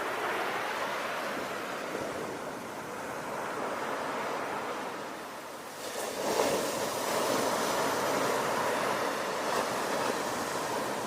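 Ocean waves washing onto a shore, a continuous rushing surf that ebbs and then swells again as a new wave breaks about six seconds in.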